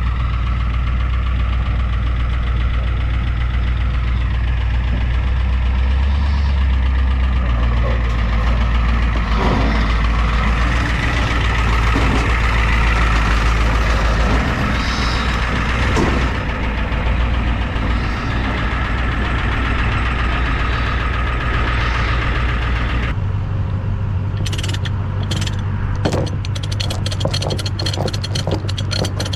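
Diesel truck engine running steadily just after a push-start, its glow plugs not working in the cold, with a deep, steady rumble. About 23 seconds in, the sound cuts to a different steady hum with a quickening run of rapid clicks.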